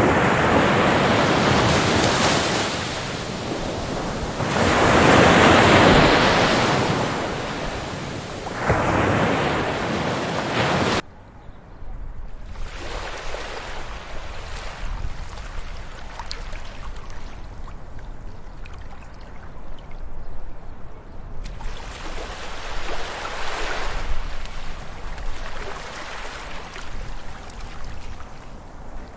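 Ocean waves breaking and washing on a beach, rising and falling in loud surges. About eleven seconds in, the sound cuts off abruptly to quieter, gentler surf over a steady low rumble, with one softer wave swelling near the end.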